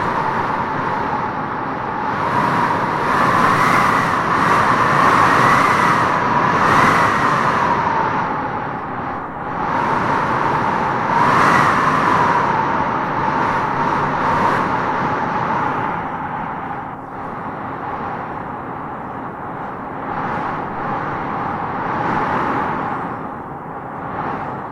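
Wind howling in gusts through trees: a steady rush with a wavering, whistling howl that swells a few seconds in and again about halfway, then eases.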